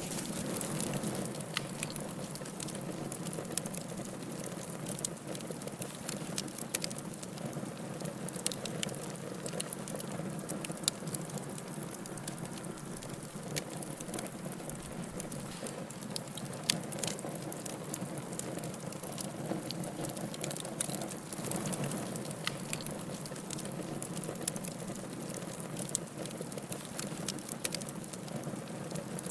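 Wood fire burning in a fireplace, crackling with many sharp, irregular pops over a steady low hiss of flame.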